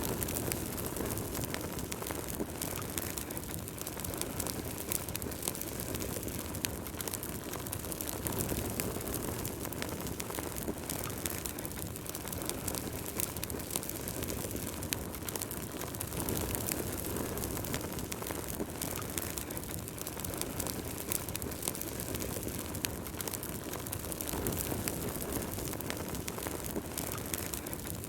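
Wood fire burning in a fireplace: a steady low rush of flame with frequent small crackles and pops from the burning wood, the rush swelling now and then.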